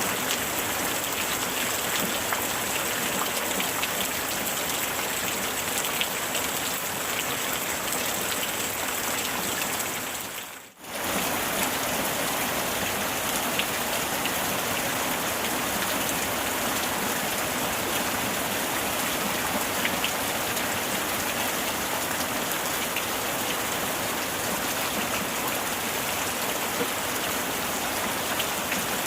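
Heavy rain falling steadily, a dense hiss full of fine drop ticks. About ten seconds in it briefly fades almost to silence, then comes straight back at full strength.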